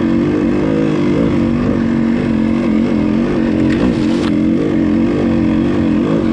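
Dirt bike engine running at low to moderate revs, its pitch rising and falling with the throttle. A brief scratchy rush cuts across it about four seconds in.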